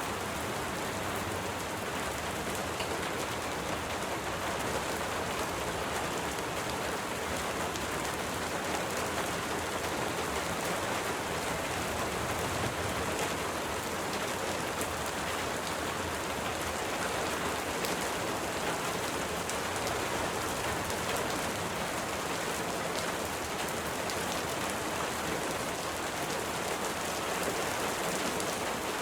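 Steady, even rain falling, with no let-up or thunder.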